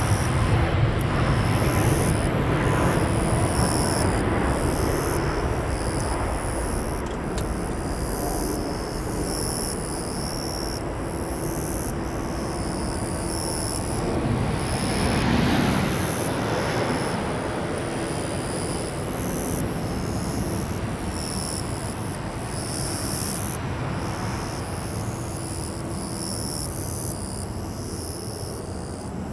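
Boeing 737-800's CFM56-7B jet engines running loud, a rumbling hiss that starts abruptly and swells again about halfway through before easing off.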